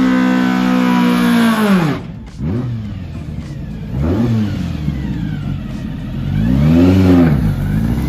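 Hopped-up Volkswagen race engine held at high revs, falling away about two seconds in, then revved up and let down several times.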